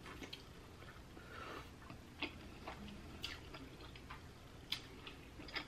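Faint close-up eating sounds: a person chewing sauce-dipped seafood, with a few scattered light clicks as the food is handled.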